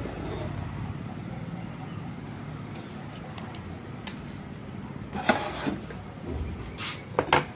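A few sharp clicks and knocks, bunched in the second half, from tools and parts being handled on a workbench during capacitor replacement on a CRT TV circuit board, over a steady background hum.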